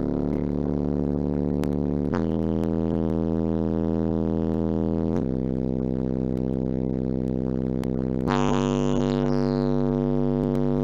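Deep bass notes played through a car audio system's 12-inch and 10-inch subwoofers, each held about three seconds before stepping to a new pitch; the note that starts about eight seconds in is louder and brighter.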